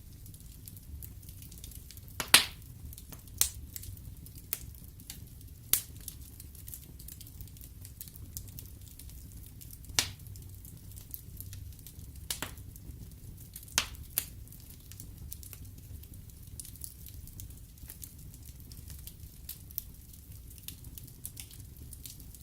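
Wood fire in a fireplace crackling over a steady low rumble, with scattered sharp pops from the burning logs; the loudest pop comes about two seconds in, and several more follow over the next dozen seconds.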